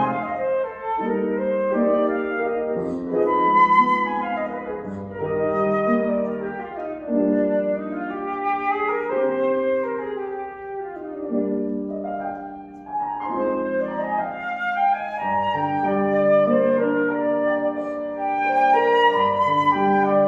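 Concert flute playing a melody of held and moving notes over grand piano accompaniment, in classical chamber music.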